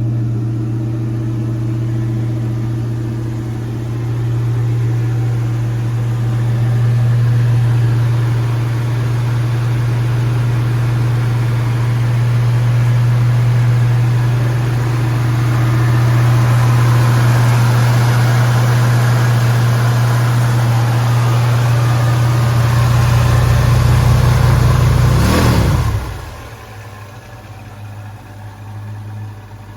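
1971 Ford Torino GT's 351 four-barrel V8 idling fast and steady on the choke. Near the end the idle falls off with a short downward sweep and the engine runs on noticeably quieter, settling to a slow idle of around 800 rpm.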